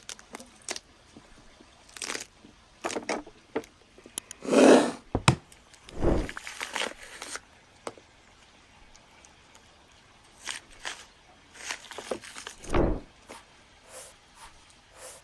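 A knife cutting into a lamb carcass: irregular crunching and scraping of the blade through meat, sinew and bone. The loudest strokes come about five seconds in and again about thirteen seconds in.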